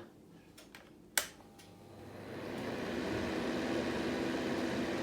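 A sharp click about a second in, then a Fine Elements upright fan heater's fan starts up on cool mode (no heat). Its rushing airflow and motor hum build over a second or so to a steady run.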